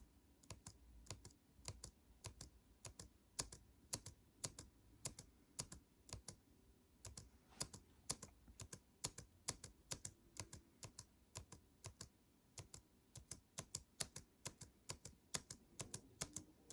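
Quiet typing on a computer keyboard: uneven keystrokes, a few a second.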